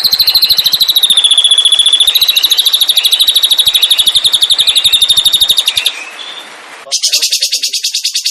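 A songbird singing a long, fast trill of evenly repeated high notes, about a dozen a second, holding nearly one pitch with a small dip partway. It stops about six seconds in. A second or so later another fast trill starts, higher and buzzier.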